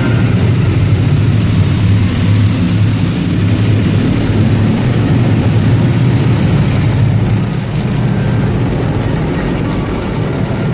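Automatic car wash machinery running, heard from inside the car: a loud, steady rumble with a low hum and a hiss over it.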